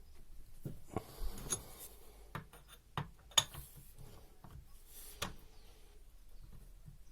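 Small metal clicks and knocks of Bosch common-rail injector parts and tools being handled during reassembly: a string of sharp taps, the loudest about three and a half seconds in.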